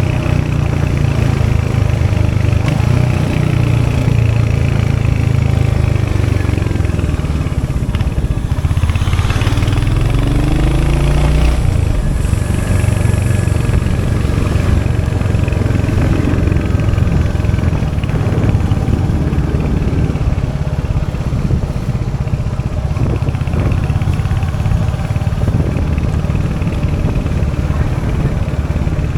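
Royal Enfield Hunter 350's 349cc single-cylinder J-series engine running steadily, its pitch sweeping up and down for a few seconds around ten seconds in.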